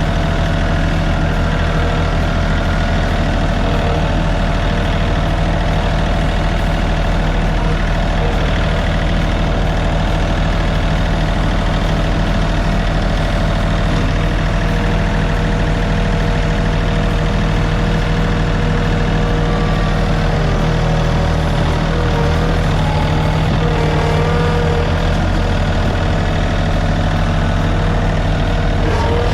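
John Deere tractor engine running steadily at a constant speed while it pulls a box blade along a ditch.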